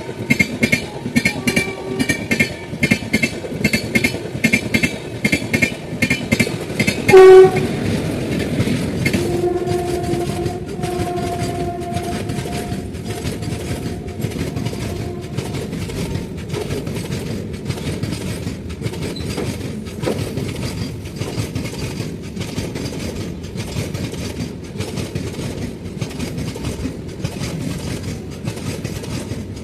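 Freight train rolling past, its wheels clattering over the rail joints in a quick, even rhythm over a steady rumble. About seven seconds in, a short, very loud locomotive horn blast; a longer, quieter horn note follows a couple of seconds later and lasts about six seconds.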